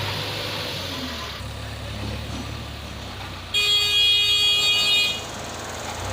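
Diesel engine of a backhoe loader or tractor running steadily, with a vehicle horn sounding once, a single steady blast of about a second and a half, about halfway through.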